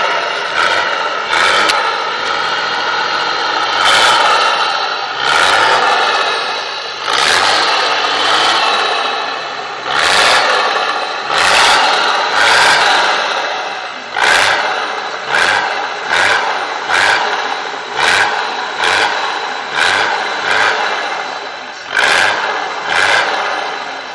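Nissan Patrol's VG engine being revved in repeated throttle blips. Each blip rises sharply and then dies away, about every second and a half at first and about once a second in the second half.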